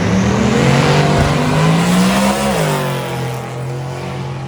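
Car engine accelerating hard: its pitch climbs steadily for about two and a half seconds, then drops sharply and settles lower as the sound fades a little.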